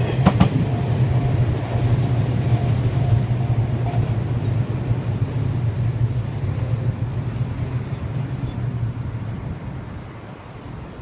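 JR West 117-series electric train moving away after passing, with a few wheel clacks at the start. Its low rumble then fades slowly.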